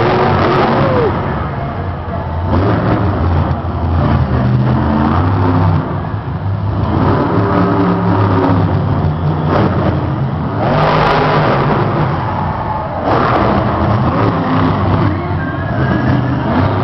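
Monster truck engines revving hard and repeatedly, the pitch jumping up and down between bursts of throttle, with louder full-throttle bursts about two thirds of the way through.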